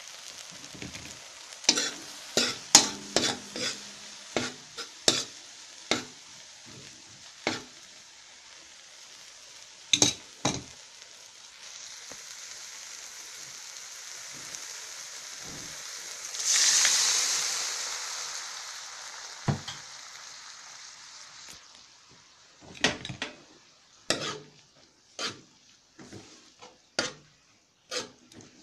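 Onion and garlic sizzling in hot oil in a metal wok, with a spatula scraping and clacking against the pan in repeated strokes. About halfway through the sizzle swells loudly and then fades. Near the end the spatula is stirring string bean seeds through the pan.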